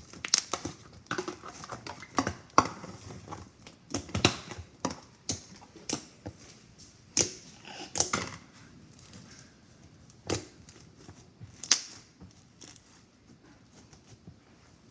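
Slime being squished and pressed by hand, making irregular sticky clicks and pops that grow sparser toward the end.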